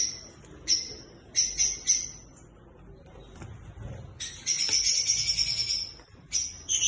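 Lovebirds chattering in shrill, high-pitched chirps that come in short bursts, with a longer run of rapid calls from about four to nearly six seconds in.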